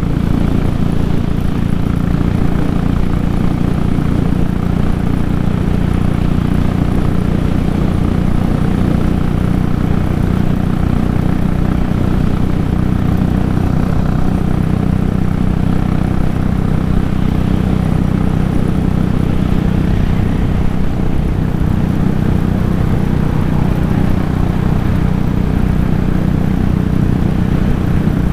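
Royal Enfield single-cylinder motorcycle engine running steadily at highway cruising speed, about 110 km/h in a tall 19-tooth front sprocket gearing, with wind rush over the on-bike microphone. The engine pitch holds constant throughout, with no shifting or revving.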